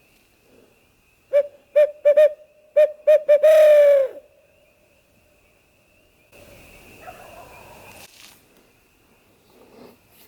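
Owl hooter call blown in barred owl rhythm: a quick run of short hoots ending in one long hoot that drops in pitch, used as a locator call to make a roosted gobbler answer. A few seconds later comes a fainter, rougher sound lasting about two seconds.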